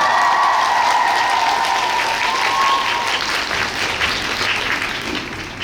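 Audience applauding in an ice rink, the clapping loud at first and slowly fading toward the end, with a long high-pitched call held over it for the first three seconds.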